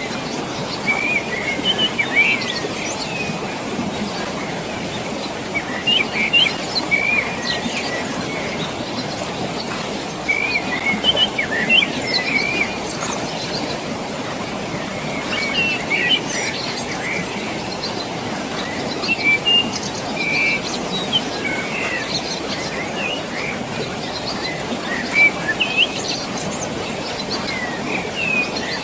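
Steady rushing of water rising from a valley, with small birds chirping in short bursts every few seconds.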